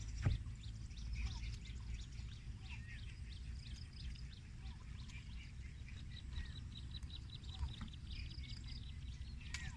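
Small birds chirping and twittering in many short, high calls, over a steady low rumble.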